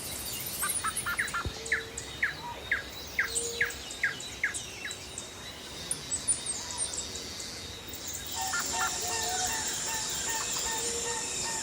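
Birds calling: a rapid series of short, falling whistled chirps for the first few seconds. From about two-thirds of the way in, a different repeated lower call takes over over a steady high buzz.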